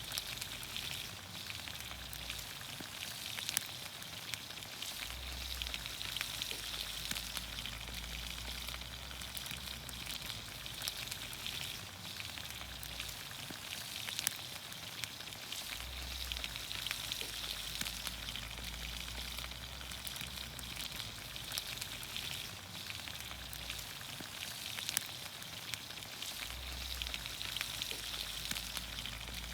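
Vegetables frying in olive oil in a pan over a campfire: a steady sizzle with frequent small crackles and pops.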